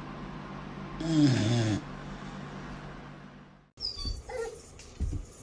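A dog's pitched vocal call about a second in, falling in pitch over less than a second, over a steady low hum. Near the end a few knocks follow.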